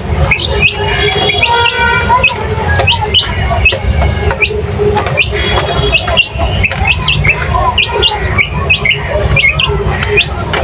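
Many small birds chirping and squawking, short quick rising chirps overlapping one another, over a steady low rumble.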